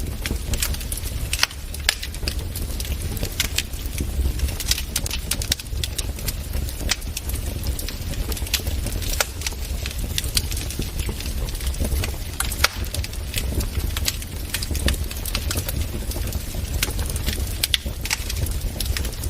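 Wood fire burning in a fireplace, with frequent sharp irregular crackles and pops over a steady low rumble of the flames.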